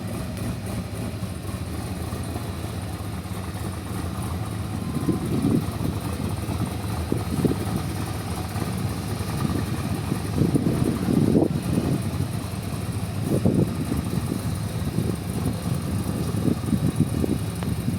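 Twin-turbo Camaro engine running at a steady idle-like note, swelling briefly several times.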